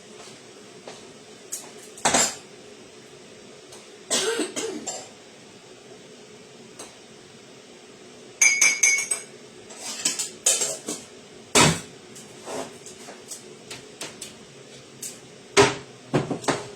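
Kitchen dishes and utensils being handled: scattered knocks, clatters and clinks, with one ringing glassy clink about eight and a half seconds in.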